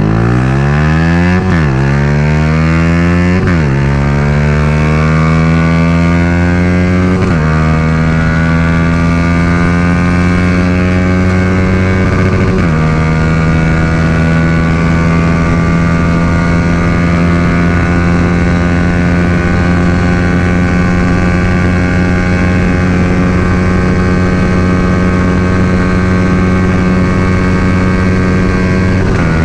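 Yamaha R15 V3's 155 cc single-cylinder engine breathing through a Daytona full-system exhaust, accelerating hard at full throttle. The pitch climbs and drops with four quick upshifts in the first dozen seconds, then holds high and nearly steady in top gear for the rest of the run. The owner takes the engine to be running lean without an ECU remap, struggling to pull past about 150 km/h.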